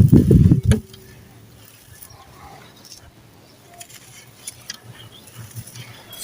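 Dry sand-cement chunks crunching and crumbling: a loud, dense run of gritty crunches for about the first second. After that come only faint scattered crackles and ticks.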